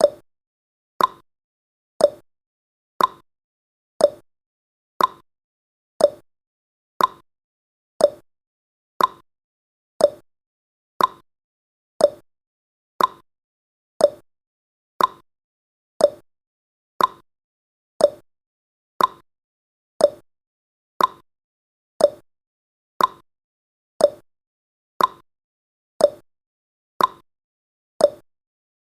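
Countdown timer's clock-tick sound effect, one sharp tick every second, alternating between a higher and a lower tick like a tick-tock.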